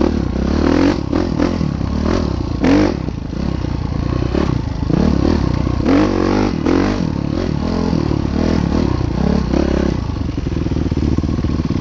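Train crossing a bridge: a steady low rumble with clattering and scraping from the wheels on the rails.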